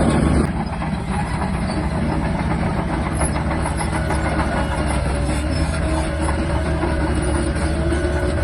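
Shantui DH17-C3 bulldozer's diesel engine running steadily under load, with its steel tracks clattering as it moves dirt. The sound drops a little about half a second in.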